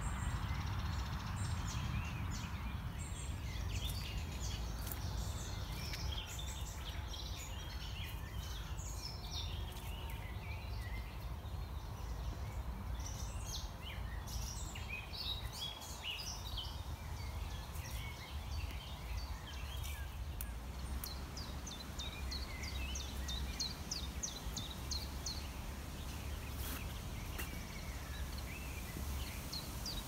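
Several songbirds singing and calling over a steady low rumble. Near the end one bird repeats a short high note about twice a second.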